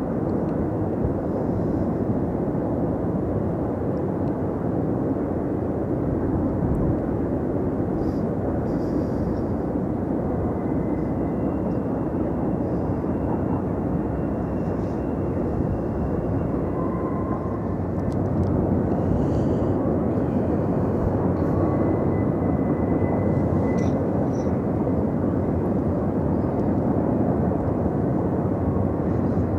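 CSX intermodal freight train rolling past on the shoreline track: a steady, loud rumble of wheels and cars, with a faint high squeal coming and going.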